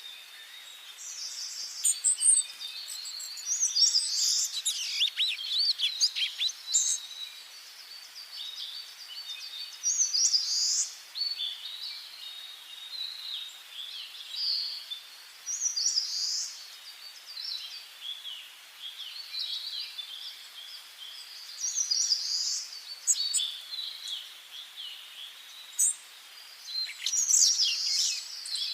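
Several songbirds singing and calling over one another in a forest, with short chirps and trilling phrases following each other every second or two over a faint steady hiss.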